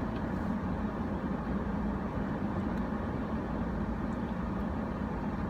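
Air conditioner running with a steady, loud hum and whoosh of air.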